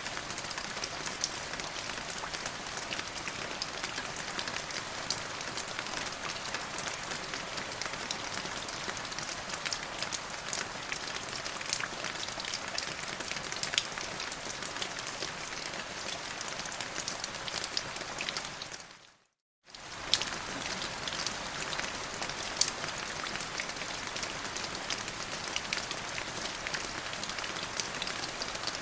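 Steady rain falling, with many individual drops ticking over a constant hiss. About two-thirds of the way through it dips to silence for under a second, then comes back abruptly, as at an edit join.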